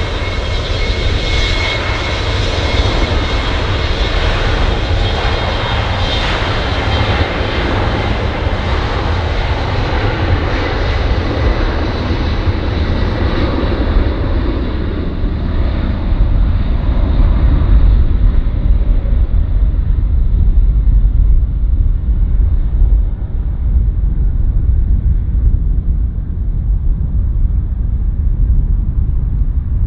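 Jet airliner engines running loud: a rushing noise with a steady high whine at first. The whine and hiss fade over the second half, leaving a deep rumble as the aircraft moves away.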